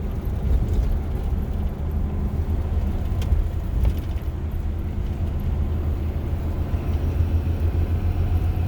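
Box truck driving at steady speed, heard from inside the cab: a constant low engine drone and road rumble with no change in pace.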